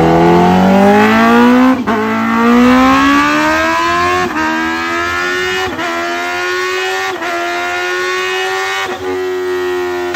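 High-revving motorcycle engine accelerating hard through the gears. The pitch climbs in each gear and drops briefly at five upshifts about a second and a half apart, with each higher gear rising more slowly.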